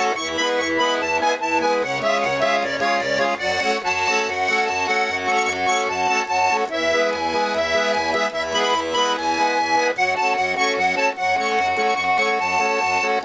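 Instrumental break of a folk-style song: an accordion plays the melody in held chords over a steady, pulsing bass.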